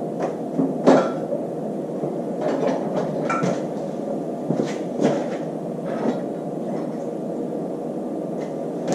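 Scattered metal clanks and knocks, the loudest about a second in, as the AMC 401 V8 engine is yanked loose from the Jeep, over a steady background hum.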